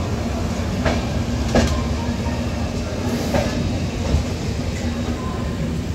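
Passenger train coach rolling out of a station, heard from its open door: a steady rumble of wheels on the track with a steady hum, and three sharp clacks of the wheels over the rails.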